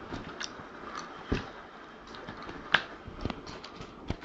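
A few scattered sharp clicks and taps, the two loudest about one and three seconds in.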